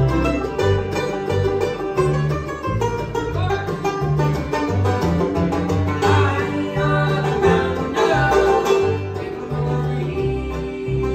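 Bluegrass band playing: banjo picking over guitar, with bass notes alternating about twice a second. A louder melody line comes up in the middle.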